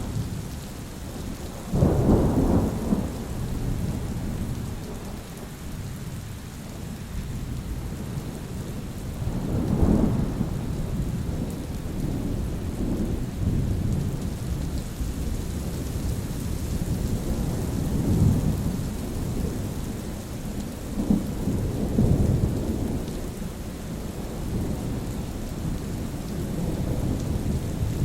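Thunderstorm: steady rain with rolls of thunder, a loud sharp-starting crack about 2 seconds in, another near 10 seconds, and softer rumbles around 18 and 22 seconds.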